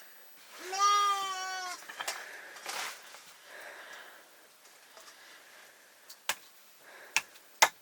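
A sheep bleating once, one drawn-out call about a second long, followed near the end by a few sharp clicks or knocks.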